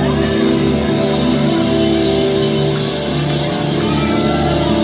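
Live gospel band playing an instrumental passage: held, steady chords over a band backing, with no lead vocal.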